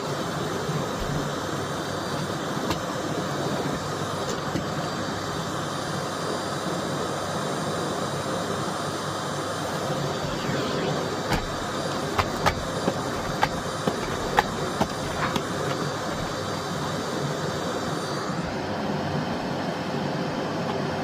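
Miele Blizzard CX1 cylinder vacuum cleaner running steadily, with a run of sharp clicks and taps about halfway through. Near the end its higher hiss drops away while the motor keeps running.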